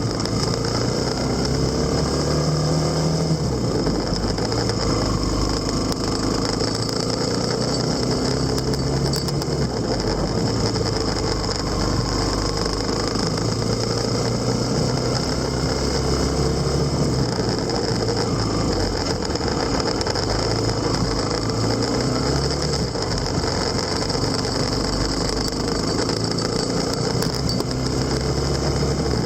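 Motorcycle engine running steadily under way, its pitch rising and falling gently as the speed changes, over a constant low rumble of road and wind noise.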